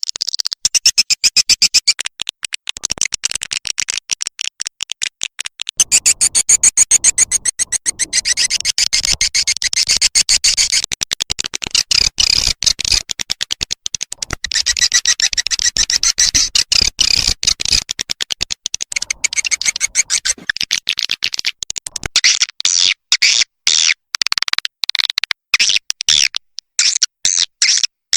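Recorded swiftlet calls played as a nesting lure: fast, continuous trains of high chirping twitters and clicks with brief breaks.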